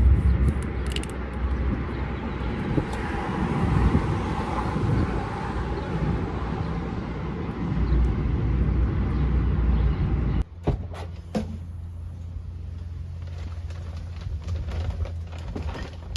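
A car driving, with a steady rumble of road and engine noise. About ten seconds in it cuts off suddenly, leaving a quieter steady low hum with a few sharp clicks.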